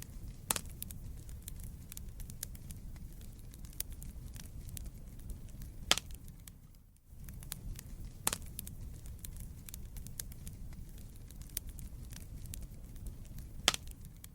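Wood fire burning in a fireplace: a steady low rumble of flames with irregular crackling and several sharper pops of the burning logs. The sound dips out briefly about seven seconds in.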